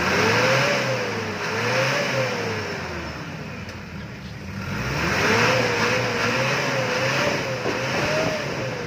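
Mitsubishi Adventure engine revved while parked, heard at the tailpipe. It gives two slow revs up and back down. Then, after a lull at idle, it gives a quicker run of about five blips toward the end.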